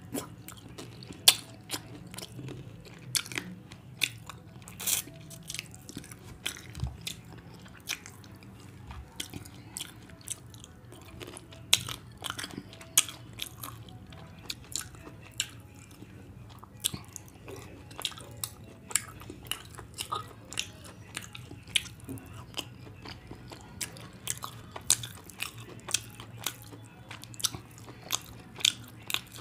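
Close-miked eating sounds of a person chewing rice and curry eaten by hand: wet chewing with sharp, irregular lip smacks and mouth clicks, sometimes several a second, over a faint low hum.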